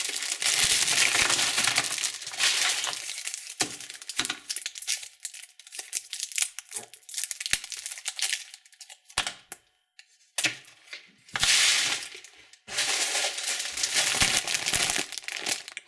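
Candy wrappers crinkling and rustling as they are handled and torn open, in uneven bursts with small clicks. There is a brief quiet spell a little before two-thirds of the way through.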